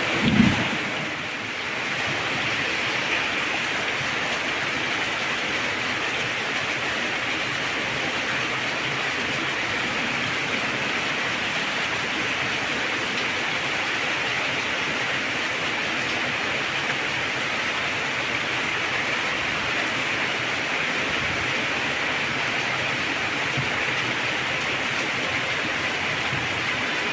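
Heavy rain falling as a steady, even hiss, with a short low thud right at the start.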